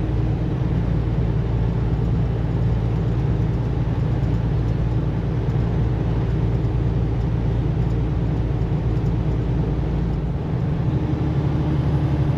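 Semi-truck driving at road speed: a steady drone of engine and road noise with a low hum, heard inside the cab. The low hum shifts about ten seconds in.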